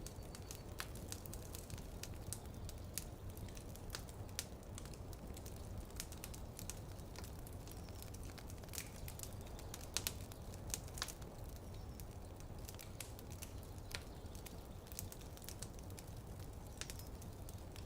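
Wood fire crackling in a fireplace: irregular sharp pops and snaps, a few louder ones about ten and eleven seconds in, over a steady low rumble.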